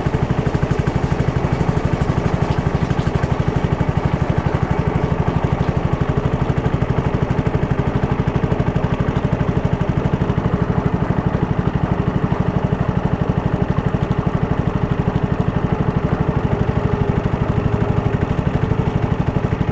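Small single-cylinder engine running steadily at an even speed, its fast pulse unchanging.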